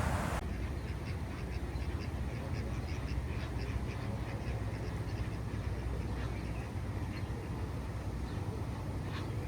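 Ducks quacking repeatedly, in many short calls, over a steady low rumble. A hiss cuts off abruptly just after the start.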